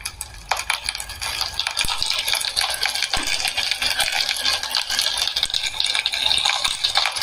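Onions, green chillies and garlic sizzling and crackling in hot oil in a pan as freshly washed agathi leaves are dropped in. The dense crackle builds over the first couple of seconds, then holds steady.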